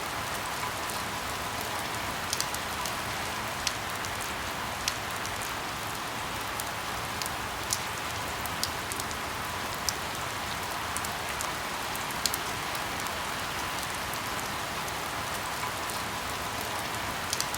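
Steady rainfall, with single nearby drops landing as sharp, irregular ticks every second or so over the even hiss. No thunder is heard.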